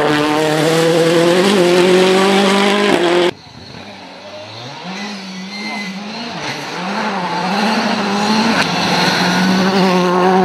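Rally car engine at full throttle, its pitch climbing as it accelerates, cut off abruptly about three seconds in. Then another rally car's engine is heard from farther off, its pitch rising and falling through gear changes and growing louder as it approaches.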